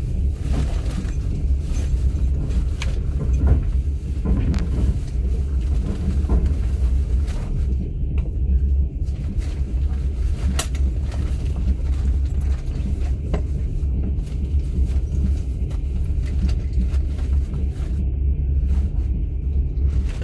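Steady low rumble of a moving passenger train heard from inside a platzkart sleeper carriage, with a few faint scattered clicks.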